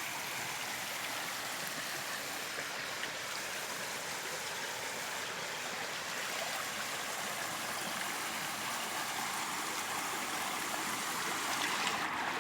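Flowing water running steadily, an even rushing wash that grows a little louder near the end.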